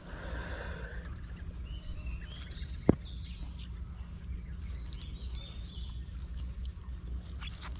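Birds chirping repeatedly over a steady low rumble, with a single sharp knock about three seconds in.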